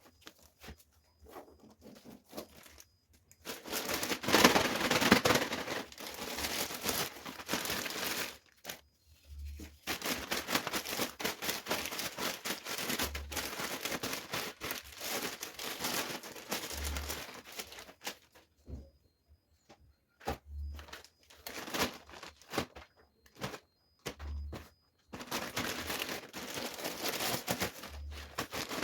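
Plastic bags or wrapping being crinkled and rustled by hand as vegetables are packed away. The rustling comes in irregular bursts of a few seconds with short pauses between them.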